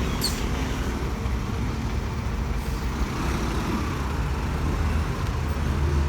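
Road traffic on a busy city avenue with diesel buses running: a steady low engine rumble and road noise, a brief high-pitched sound just after the start, and the rumble growing louder near the end.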